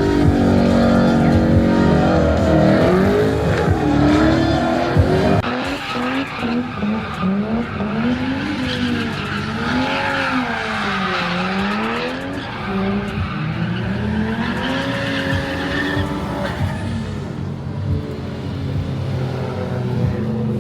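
Drift car's engine revving hard, its pitch rising and falling again and again every second or two, over the steady hiss of tyres skidding.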